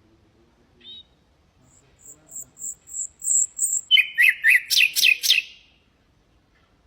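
Common nightingale singing one song phrase: a short high note, then a string of thin, very high pips at about four a second, building into a loud run of rapid, sharp descending notes that stops abruptly about five and a half seconds in.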